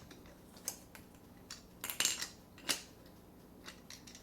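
Hard plastic toy truck parts clicking and knocking together as they are handled and fitted, in a few separate taps with the loudest about two seconds in.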